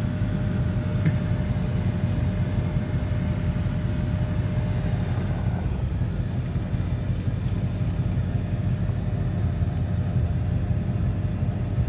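Steady low rumble of car engines running, with a faint steady hum above it.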